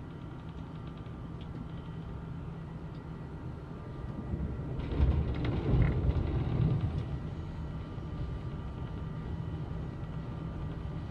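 Electric S-Bahn train running at speed, heard from inside the carriage: a steady rumble of wheels on rails with faint steady high tones over it. The rumble swells to a louder rush for about two seconds around the middle, then settles back.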